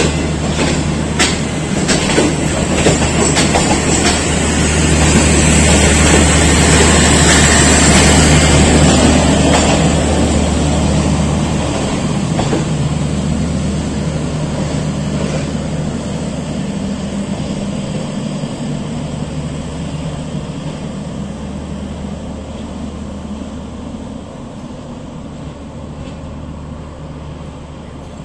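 Passenger train coaches rolling past, wheels clicking over rail joints under a steady low hum. The sound peaks several seconds in, then fades steadily as the last coach pulls away.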